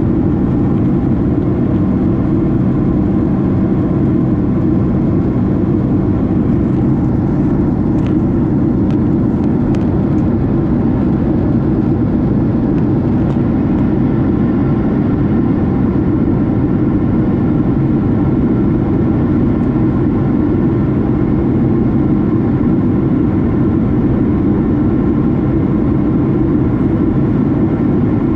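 Boeing 767 passenger cabin noise: a steady, loud engine and airflow drone with faint steady tones above it.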